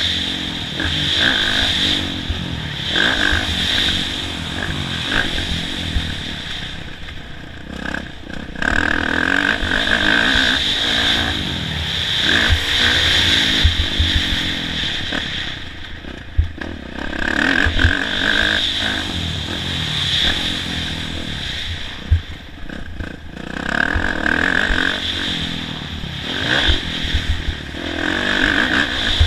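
Kawasaki KX450F dirt bike's four-stroke single-cylinder engine, ridden hard round a motocross track: it revs up and drops off again and again as the throttle is opened and shut, with a few sharp knocks along the way.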